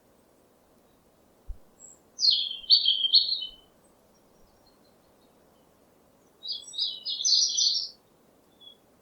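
A small songbird chirping: two short phrases of quick high chirps about four seconds apart, over a faint steady background hiss.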